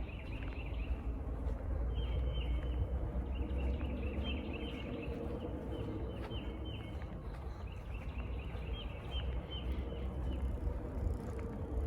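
Birds chirping in repeated short phrases of quick notes, a new phrase every second or two, over a steady low rumble.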